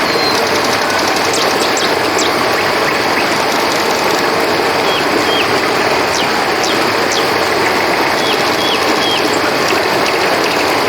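Steady rushing of flowing river water, with crickets trilling and a scatter of short, high chirps and quick falling whistles over it.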